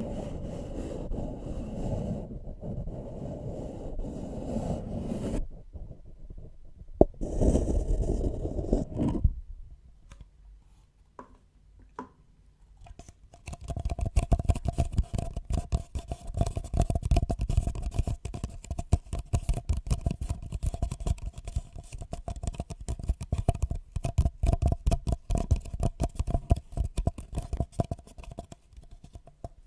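Close-up scraping and scratching of handled objects against a microphone. A few seconds of rough scraping is followed by a brief louder rustle, a short near-quiet pause, and then a long stretch of fast, dense scratching with a faint steady ring underneath.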